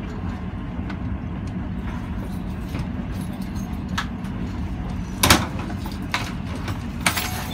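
Steady low rumble of a moving passenger train heard from inside the carriage, with a sharp knock about five seconds in and a brief clatter near the end.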